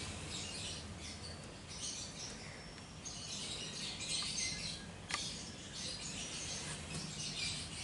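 Small birds chirping and twittering in the background, with a faint low hum and a single sharp click about five seconds in.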